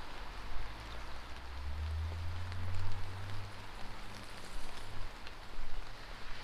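Steady rain falling and splashing on wet street surfaces, with a low rumble that swells for a couple of seconds about a second and a half in, then fades.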